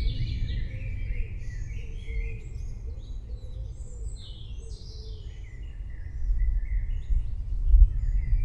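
Small birds chirping and twittering, many short overlapping calls, over a low rumble of distant thunder that grows louder about six seconds in.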